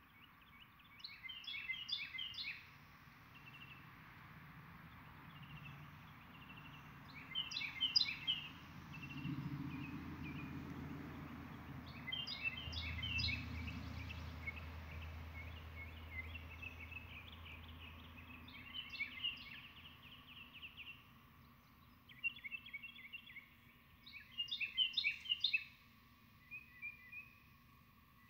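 A songbird singing short, fast phrases of high chirps, one phrase every five seconds or so. Under it is a faint steady hum, and a low rumble swells through the middle.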